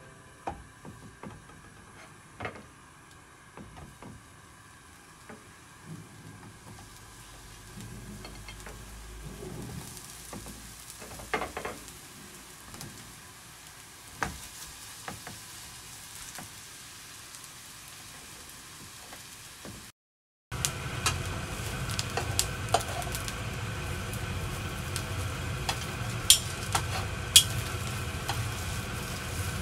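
Eggplants being set into an oiled frying pan with scattered light knocks. After a sudden cut about two-thirds of the way through, halved eggplants frying in hot oil with a loud, steady sizzle, and sharp clicks of metal tongs against the pan.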